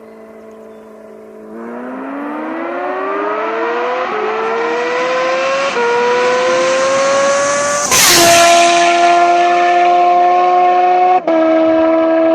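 Kawasaki H2R's supercharged 1000cc inline-four accelerating hard: the engine note climbs through the gears with two quick upshifts, then a loud rush about eight seconds in as the bike passes, after which the note drops in pitch and holds at high revs.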